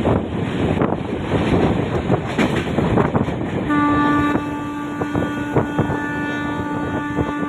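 Train running on the rails with a steady rumble and scattered knocks; a little under four seconds in, a train horn sounds one long steady blast that is still going at the end.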